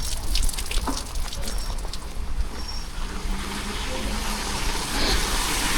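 Street ambience in the rain: a steady low rumble with scattered drip-like ticks in the first two seconds. A vehicle hums faintly around the middle, and the rain hiss swells near the end.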